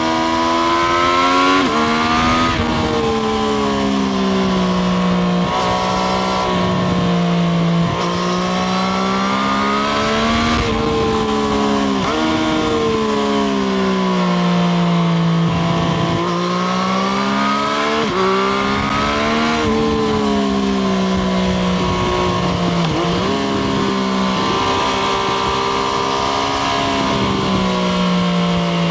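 Triumph Street Triple RS's 765 cc inline three-cylinder engine heard from onboard while riding. The engine note climbs and falls again and again, with a few abrupt breaks in pitch where gears change.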